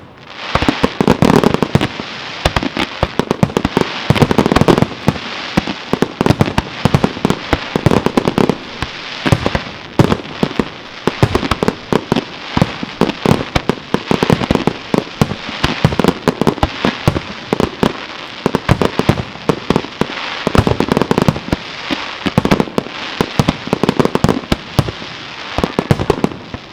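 Aerial fireworks display: a dense, continuous barrage of shell bursts, bangs and crackling with no pause.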